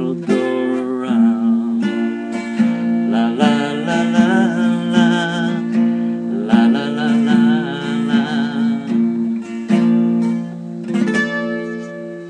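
Acoustic guitar playing the song's closing bars with a held, wavering sung melody over it. It ends on a last strum about eleven seconds in that is left to ring and fade.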